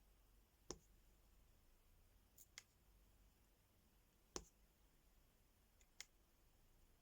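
Faint, sharp clicks and taps of small plastic pieces being handled, about six in all and some in quick pairs, a second or two apart, over a near-silent room.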